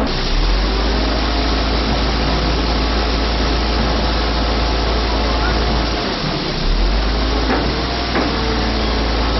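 Heavy tow truck's engine running under load, driving the hydraulic boom as it extends, a steady loud rumble with a brief dip about six seconds in and a couple of light knocks near the end.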